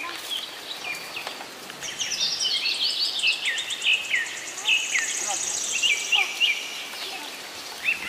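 Birds chirping in the trees: many short, downward-sliding notes repeated throughout. A fast, high trill joins in about two seconds in and stops about two seconds before the end.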